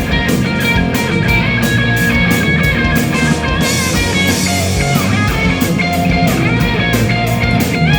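Rock band playing live: electric guitar lines bending in pitch over a drum kit, the cymbals keeping a steady beat about four strokes a second, with a cymbal crash ringing out about three and a half seconds in.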